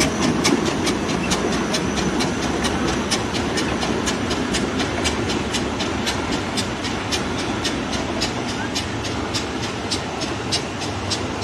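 Train wheels running over rail joints: a steady rumble with regular clickety-clack, about two to three clicks a second.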